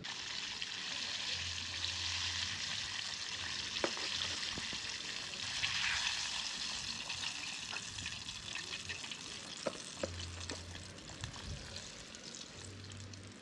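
Floured chicken pieces frying in hot oil in a pot: a steady sizzle that swells to its loudest about six seconds in and then eases off, with a few sharp clicks.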